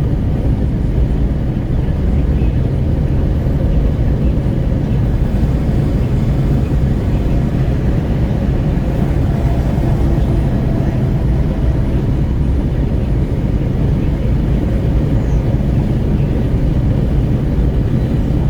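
Steady low rumble of wind buffeting at the window of a Renault Kwid 1.0 moving at highway speed, mixed with road and engine noise.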